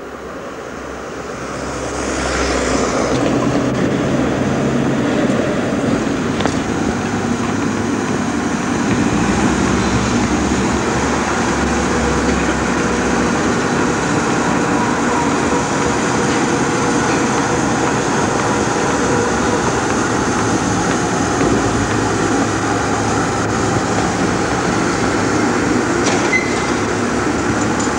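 Goods wagons rolling past on street track behind a V10-type diesel shunting loco, the engine and wheels making a steady noise. The noise builds over the first two seconds or so, then holds level.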